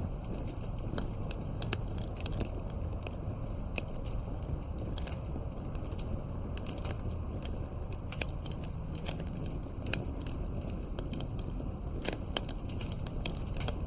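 Wood campfire burning, with scattered sharp crackles and pops over a steady low rush of flame.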